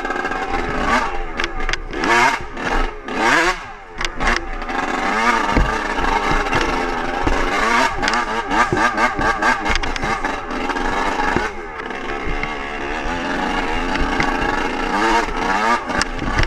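Dirt bike engine revving hard, its pitch rising and falling quickly in the first few seconds, then running on under throttle with rattling.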